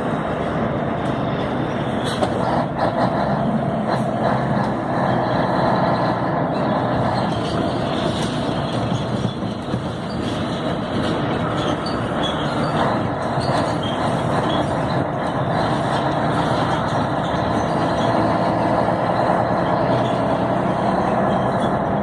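Scania 112 truck's diesel engine running steadily while driving, with continuous road and cab noise and a few sharp knocks about two to four seconds in.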